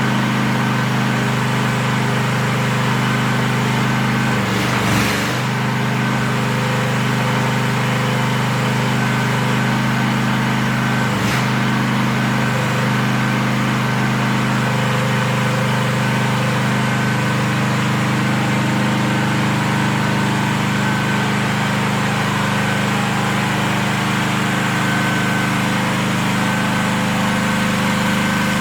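Small engine of a mini excavator running at a steady speed, with two brief knocks, one about five seconds in and a lighter one at about eleven seconds.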